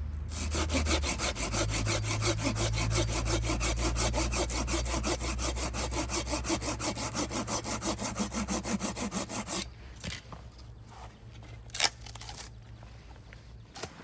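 Hand saw cutting through a branch of firewood with fast, even back-and-forth strokes for about nine seconds, then stopping. A single sharp knock follows a couple of seconds later.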